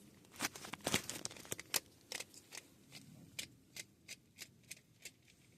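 Screwdriver backing out the terminal set screws on a new circuit breaker: a string of small, sharp clicks at uneven spacing, about three a second.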